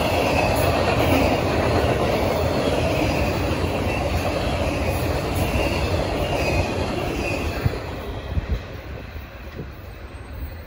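Intermodal freight train's well cars rolling past, steel wheels clattering on the rails in a steady rumble. About eight seconds in the sound falls away as the end of the train goes by.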